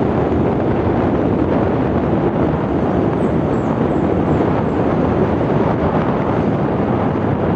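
Steady wind rush over the microphone of a moving motorcycle, mixed with road and engine noise.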